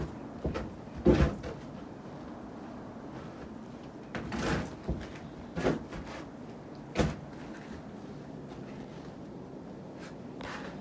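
A handful of irregular soft thumps and rustles, the loudest about a second in, over a steady low background hiss.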